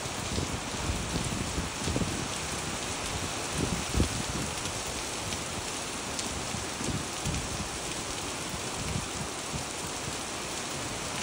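Steady rain splashing onto wet, puddled pavement, with scattered low thumps, one louder about four seconds in.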